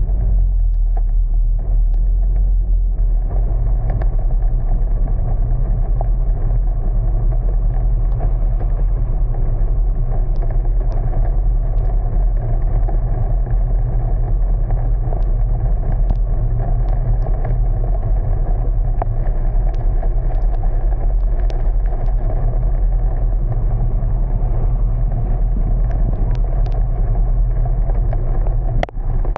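Car driving on rain-soaked streets: steady engine and road rumble with tyre noise, and scattered faint ticks.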